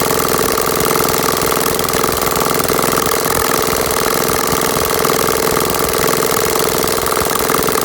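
Small engine running steadily at an even idle, with a fast, regular firing beat that stays unchanged throughout.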